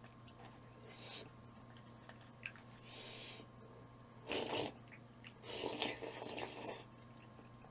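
Close-miked eating sounds: a person chewing food, with scattered short noisy mouth sounds, the loudest about four and a half seconds in and a longer stretch about a second later.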